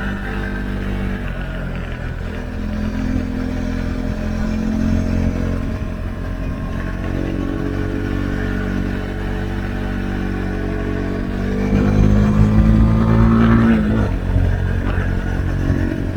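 Husqvarna Svartpilen 401's single-cylinder engine through an Akrapovic exhaust with the dB-killer removed, running under load on the move. Near the end the revs climb for a few seconds and get louder, then drop sharply.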